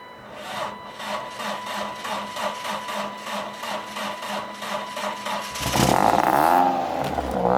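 BMW E36 engine, running on white paint instead of motor oil, cranking with an even chug of about four strokes a second, then catching about five and a half seconds in and being revved, its pitch rising and falling.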